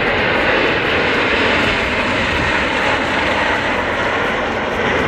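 Aermacchi MB-339 jet trainers flying overhead: a loud, steady rush of jet engine noise.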